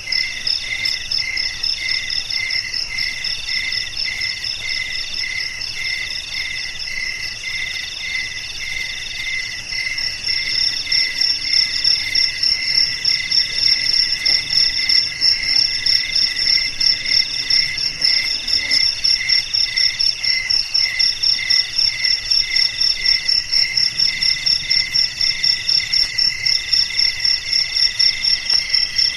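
A chorus of crickets chirping in several overlapping pulsing rhythms: a high, rapid pulse, a lower chirp about twice a second, and longer trills. The high pulsing gets louder about ten seconds in.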